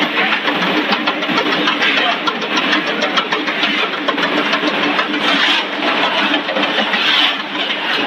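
Snack-food processing machine running: a steady mechanical hum with a rapid, fine clatter.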